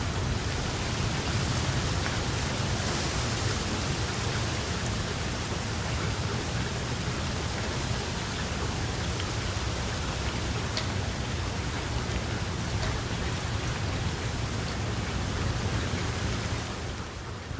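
Steady rain falling, an even hiss with a few sharp drop clicks and a low rumble underneath; it drops noticeably quieter near the end.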